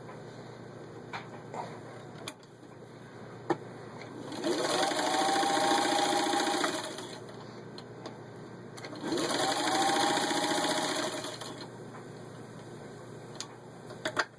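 Singer 15-91 sewing machine stitching through six layers of denim in two short runs of about two and a half seconds each. The motor speeds up at the start of each run and winds down at the end, with a few light clicks before and after.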